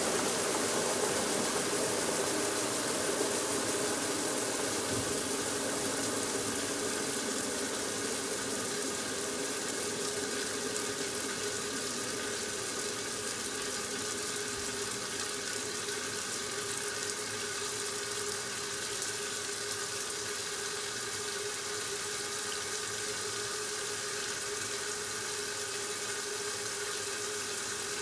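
1969 Westinghouse washing machine filling with water: a steady hiss and splash of water entering the tub through the inlet valve, with a steady hum under it.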